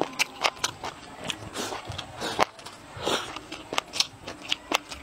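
A person chewing a mouthful of food close to a clip-on microphone: many short, wet, crackly mouth clicks and crunches, several a second, in an uneven rhythm.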